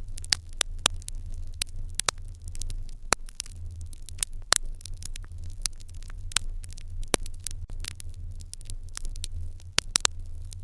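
Fire in an irori hearth crackling, with frequent sharp pops at uneven intervals over a steady low hum.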